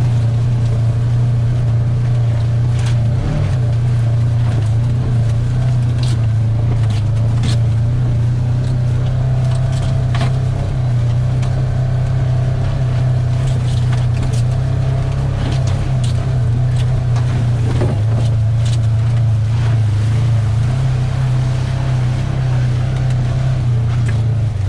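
A vehicle engine droning steadily while driving across a field, heard from inside the cab, with scattered short knocks and rattles.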